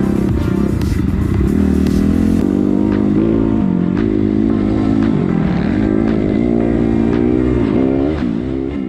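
Suzuki RM-Z250 dirt bike's four-stroke single-cylinder engine running under load, its pitch rising and falling repeatedly as the throttle is opened and closed. The sound fades out near the end.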